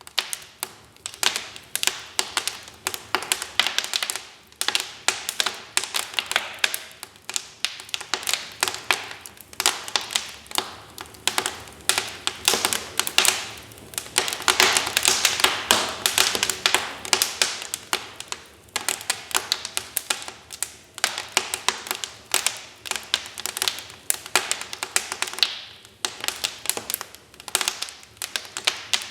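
Wood fire crackling in a fireplace: dense, irregular sharp pops and snaps, with a busier stretch of crackling around the middle.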